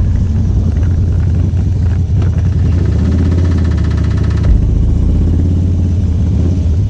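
Motorcycle engine running steadily with a deep, low engine note, without pauses.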